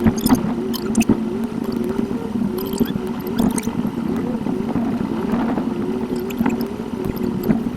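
Car cabin sound picked up by a dashcam and played back at eight times speed: the drive's hum turned into a wavering, warbling tone over a steady lower drone, with scattered sharp clicks.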